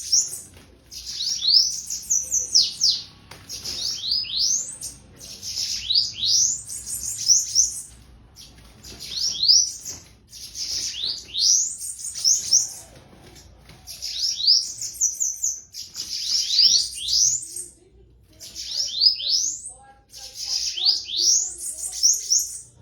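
Bananaquit singing over and over: short, high, thin phrases of quick sweeping notes, one about every two seconds.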